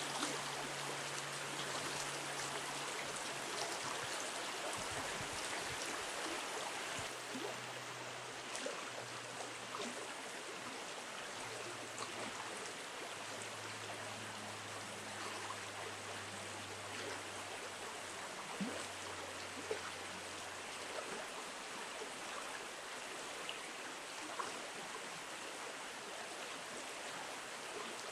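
Shallow river water rushing steadily, with a few faint ticks.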